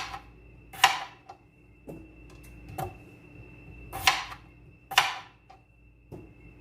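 Kitchen knife chopping through raw potatoes onto a cutting board: six or seven sharp knocks, roughly one a second, some louder than others.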